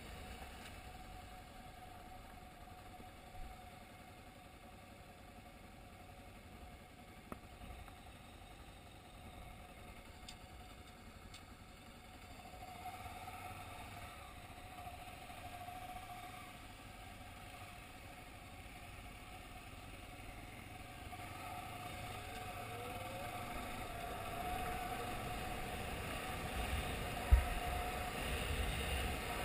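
Honda XRE 300 single-cylinder motorcycle engine running at low speed, growing louder over the last ten seconds as the bike pulls away on a dirt road. A single sharp knock comes about two seconds before the end.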